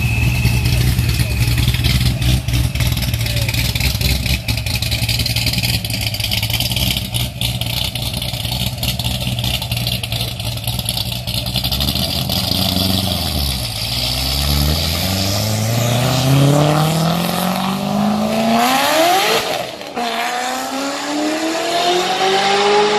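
Chevrolet Corvette C6 convertible's V8 running at low revs as it pulls off, then accelerating hard from about halfway: the engine note climbs steeply, breaks at an upshift, and climbs again near the end.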